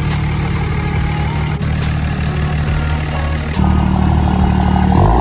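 A truck engine running steadily at a low pitch, growing louder and fuller about three and a half seconds in.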